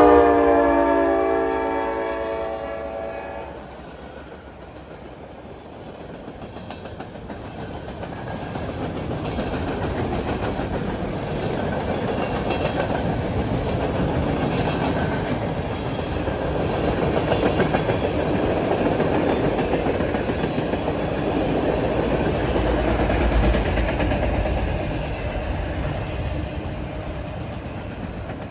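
Diesel locomotive horn on a manifest freight train sounding one loud blast that fades out about three seconds in. Then the train passes at speed, a steady rumble and rattle of rail cars on the track that builds and holds.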